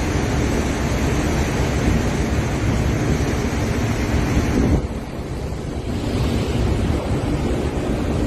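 Loud, steady rushing noise of wind and churning water, with heavy wind buffeting on the microphone; the sound changes abruptly about five seconds in, dropping in its upper range before building again.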